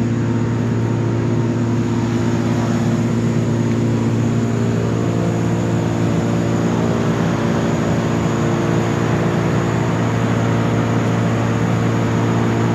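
Engine of heavy tree-removal machinery running at a steady speed: a constant drone with a strong low hum.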